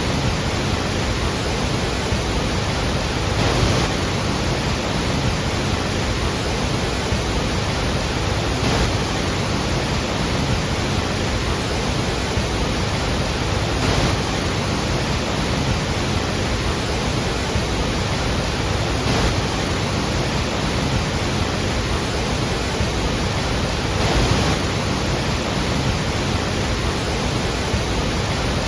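Iguazu Falls: a steady, loud rush of heavy falling water, swelling slightly a few times.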